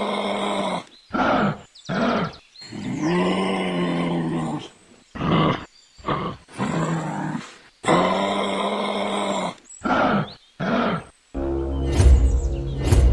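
A series of pitched animal calls, some held about a second and some short, broken by sudden gaps. Near the end they give way to music.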